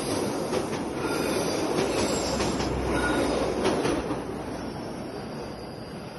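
KAI train running over a railway bridge: a dense rumble of wheels on rail with repeated clicks, dying away about four seconds in.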